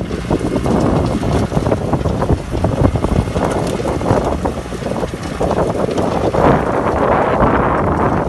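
VST Shakti tractor's engine running with a rotavator working behind it, a loud, rough, uneven rumble, with wind buffeting the microphone.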